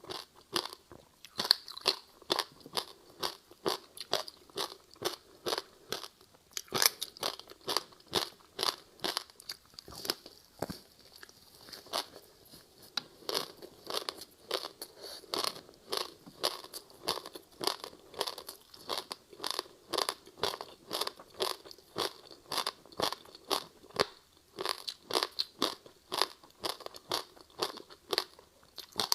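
Ice being chewed close to the microphone: a steady run of crisp crunches, about two to three a second, as frozen passion fruit ice with sesame seeds is bitten and ground between the teeth.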